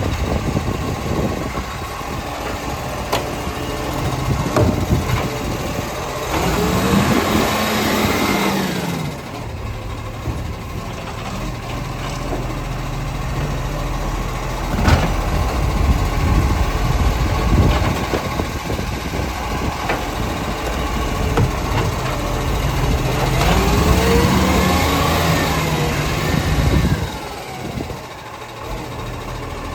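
Side-loader garbage truck's diesel engine running at idle, revving up and back down twice to drive the hydraulic bin-lift arm, with knocks and clanks between the revs.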